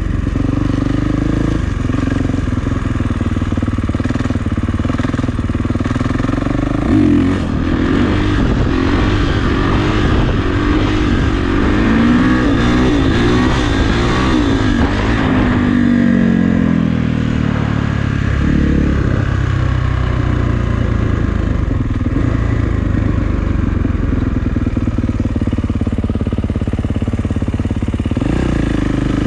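Kawasaki KX450F dirt bike's single-cylinder four-stroke engine running under throttle, its pitch rising and falling through the middle stretch.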